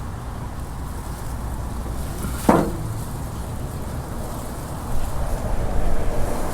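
Wind buffeting the microphone with a low rumble that grows louder near the end, and a single sharp knock about two and a half seconds in.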